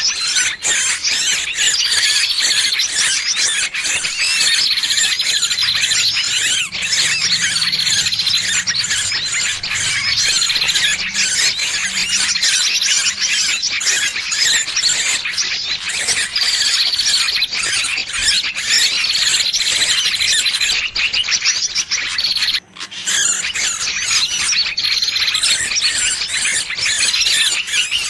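Distress cries of a trapped bird: dense, shrill squealing and chattering with a short phrase recurring about every two seconds and one brief break about three-quarters of the way through. This is a bird-lure ('pikat') recording, played to draw other birds in.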